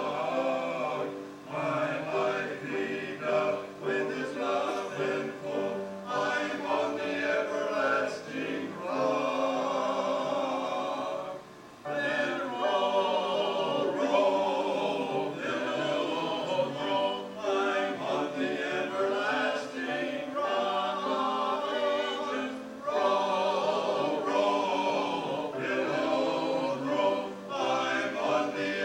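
A choir singing a hymn, with a brief pause between phrases about twelve seconds in.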